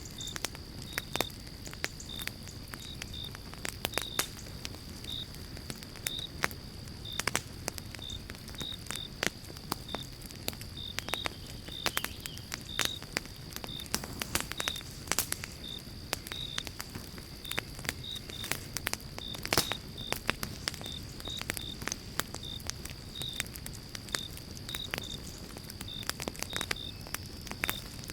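Pine-log campfire crackling and popping, with many sharp irregular pops over a low steady rumble of the flames. Short high chirps repeat in the background, about one or two a second, over a steady high tone.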